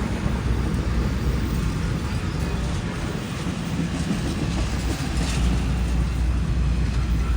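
Train rolling past with a steady low rumble.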